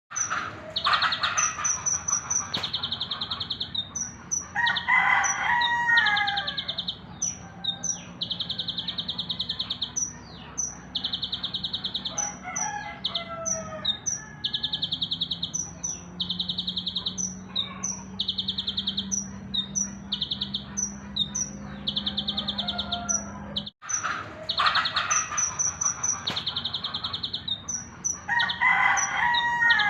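A songbird singing: a high, rapid buzzy trill lasting about a second, repeated over and over about every second and a half, with short sharp chirps in between. Lower, fuller calls break in a few times, near the start, around five seconds in and near the end, and the sound cuts out for an instant a little after twenty-three seconds before the same song pattern starts again.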